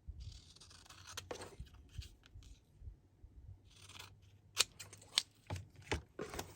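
Scissors cutting paper: stretches of rustling hiss, then a run of sharp snips in the second half.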